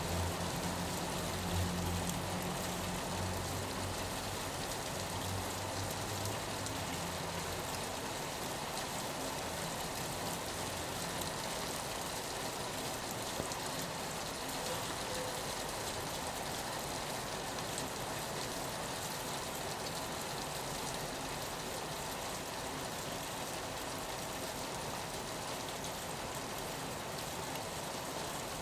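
Steady rain falling on a window, an even hiss of drops. A low rumble sits under it for the first seven seconds or so, then fades out.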